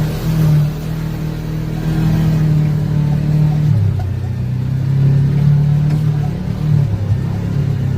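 Vehicle engine running under way, its pitch steady, then dropping to a lower note about four seconds in and shifting again near the end, as the throttle or gear changes.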